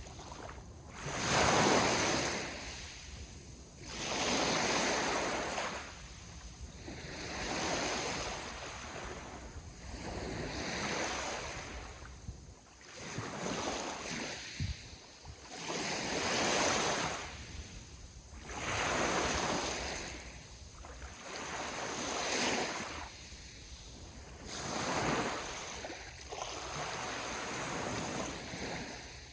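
Ocean waves breaking on the shore: a wash of surf that swells and fades again every two to three seconds.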